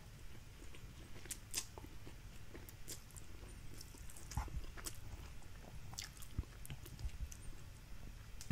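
Faint close-up chewing of fried instant noodles, with scattered small clicks and soft wet mouth sounds.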